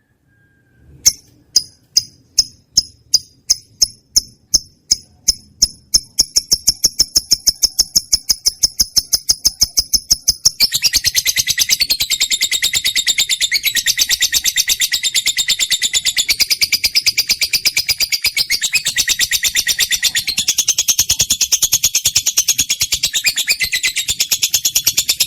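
Lovebird chirping: sharp, high single chirps about two a second that quicken into a rapid run, then break into a loud, continuous high-pitched chatter about eleven seconds in.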